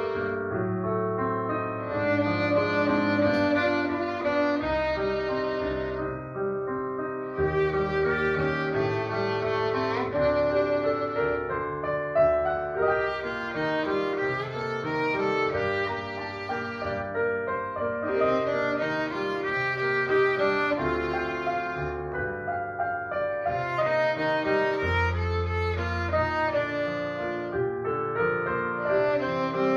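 Violin playing a melody over piano accompaniment, in phrases of a few seconds each.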